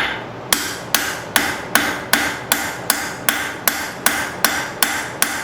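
Blacksmith's hand hammer striking a hot steel bar on an anvil in a steady rhythm, about two and a half blows a second, each blow ringing briefly. It is forging work to blend a drawn taper smoothly back into the square stock.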